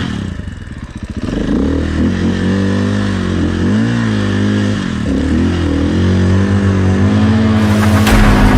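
Dirt bike engine idling and being blipped, its pitch rising and falling with each twist of the throttle, several times over; the engine is cold. Music comes in near the end.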